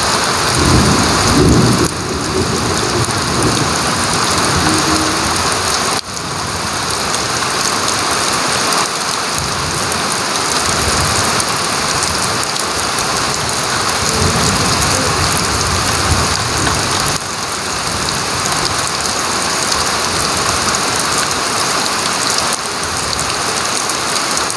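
Heavy rain pouring steadily: a dense, even hiss. A brief low rumble about a second in is the loudest moment, and fainter ones come around ten and fourteen seconds in.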